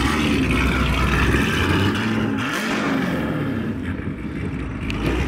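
Chevrolet Camaro ZL1's supercharged V8 running as the car rolls by at low speed, with the revs rising and falling once midway.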